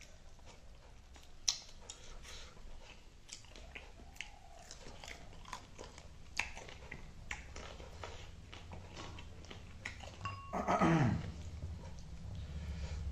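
Close-up chewing and mouth clicks of a person eating spicy chicken wings with his hands, a string of short wet smacks and crunches. About ten and a half seconds in comes a short, louder vocal sound that drops in pitch.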